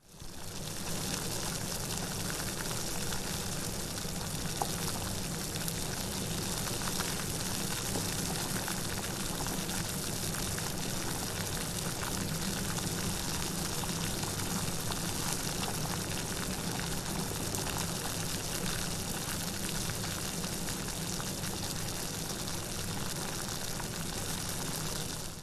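Steady heavy rain: an even, dense hiss of falling drops with a low rumble underneath. It rises out of silence at the start and cuts down to silence again at the very end.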